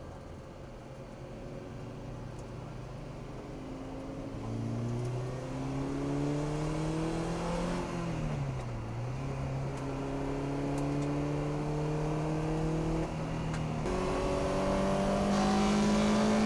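Honda K20 four-cylinder engine in a Lotus Elise, heard from inside the cabin, accelerating hard with its pitch climbing. About eight seconds in the pitch drops briefly at an upshift, then climbs again, and the engine grows louder near the end.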